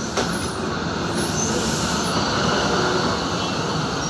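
Abu Qir line commuter train running on the rails: a steady rumble with one sharp clank just after the start.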